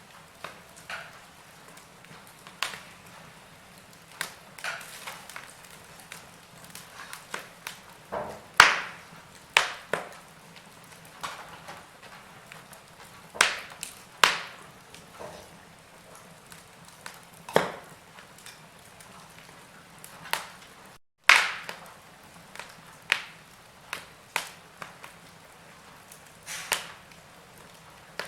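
Wood fire in a fireplace crackling, with irregular sharp pops of differing strength over a faint steady hiss. The sound briefly cuts out about two-thirds of the way through.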